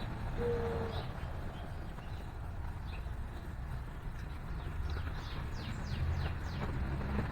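A dove's single low coo about half a second in, then a run of quick, high, downward-sweeping chirps from small songbirds in the second half, over a steady low background rumble.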